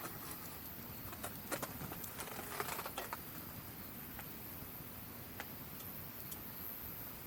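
Wood campfire crackling: irregular sharp pops and snaps, a quick cluster of them a second and a half to three seconds in, over a steady low hiss.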